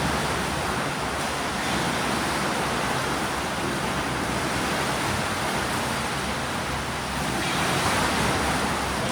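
Swimming pool noise: steady splashing and churning water from swimmers doing breaststroke drills, growing louder about seven and a half seconds in.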